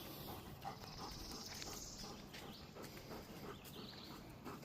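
A dog panting faintly while resting, hot from exertion.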